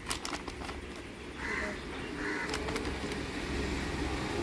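A bird calling faintly over a low background rumble, with a few light clicks.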